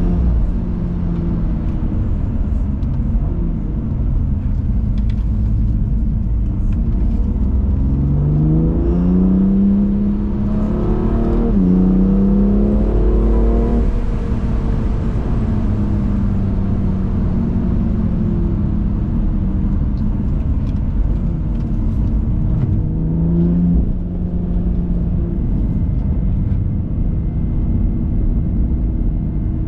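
BMW M2 Competition's twin-turbo inline-six engine pulling through the gears on the road. The revs climb under acceleration and drop sharply at gear changes, about a third of the way in and again about four-fifths of the way in. Steady tyre and road rumble runs underneath.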